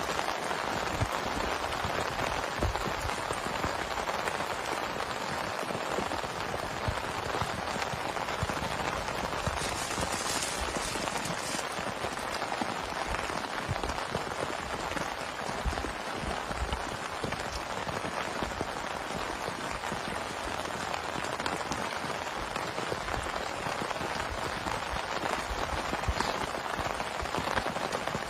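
Heavy rain falling steadily, a dense patter of drops striking a surface with no let-up.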